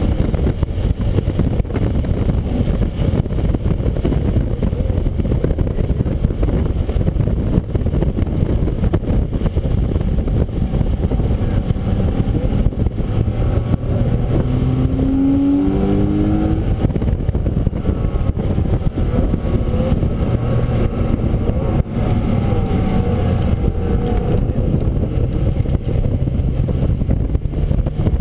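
Race-track car at speed on a wet track, heard through an onboard camera: a steady, heavy low rumble of engine and road noise, with the engine pitch rising and falling about halfway through.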